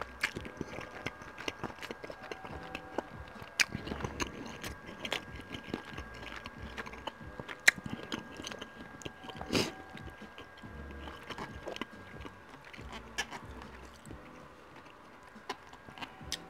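Close-miked chewing of a mouthful of spaghetti: wet mouth clicks and smacks at an irregular pace.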